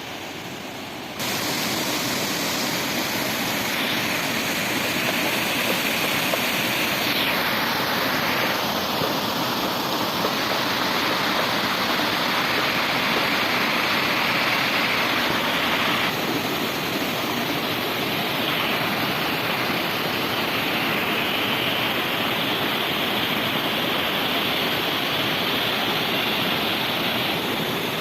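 Waterfall: a steady rush of falling water that jumps up in loudness about a second in.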